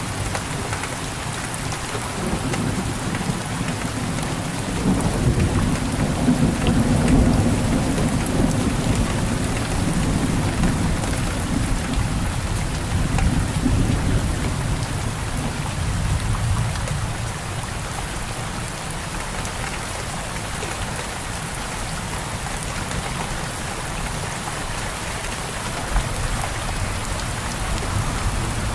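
Steady rain pattering, with a long low rumble of thunder rolling through the first half and dying away.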